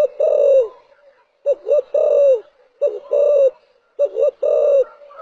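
Spotted dove cooing: four phrases in a row, each made of two short coos followed by a longer drawn-out coo that falls at the end.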